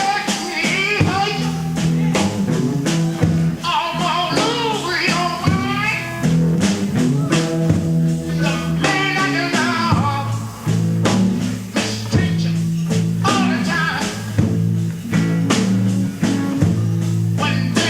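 Live electric blues band playing a slow blues: slide guitar gliding over a second electric guitar's bass line, with drums keeping time.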